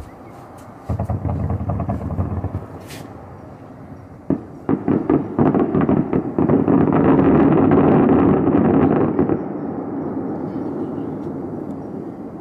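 Fireworks going off in a rapid barrage: a burst of crackling about a second in, then a sharp bang and a dense run of bangs that swells into a sustained rumble and slowly dies away.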